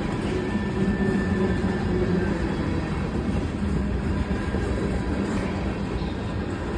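Freight cars of a CSX local freight train rolling past: a steady rumble of steel wheels on rail with a faint steady whine.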